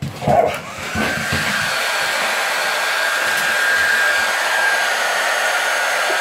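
Handheld hair dryer switched on, spinning up within about a second to a steady rush of air with a steady high whine. A brief louder sound comes just as it starts.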